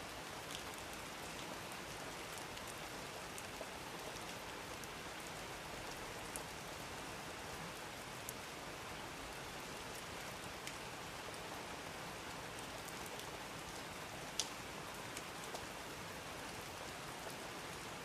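Steady rain, with scattered single drops striking nearby as small ticks, one louder drop about fourteen seconds in.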